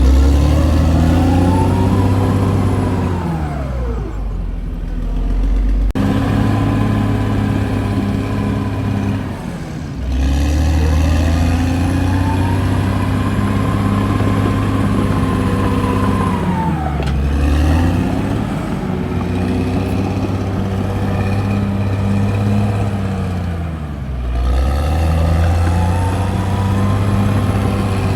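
CAT D6R bulldozer's diesel engine running hard, its pitch sagging and rising again in long swells every several seconds as the load comes on and eases.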